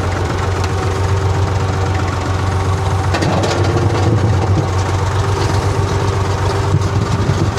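Old farm tractor's engine running steadily under load in second gear while it drives forward plowing snow, with a constant low hum.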